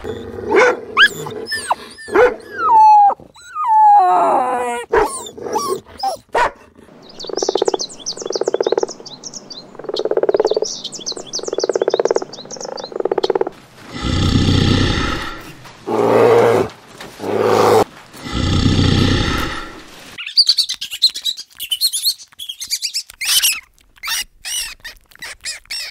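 A sequence of animal calls. First a husky growls and yelps with gliding whines. Then a frog croaks in short pulsed calls, followed by louder, deeper croaks, and near the end a rat squeaks in high-pitched bursts.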